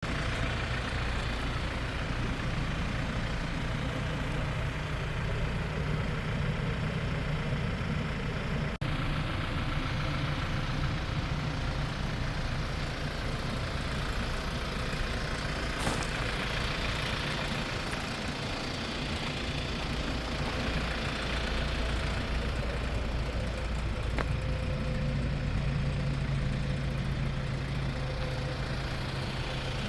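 Hyundai Porter II truck's four-cylinder diesel engine idling steadily.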